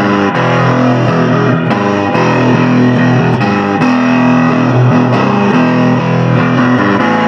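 Electric guitar playing a busy riff in a rock-blues instrumental passage, with a bass line underneath.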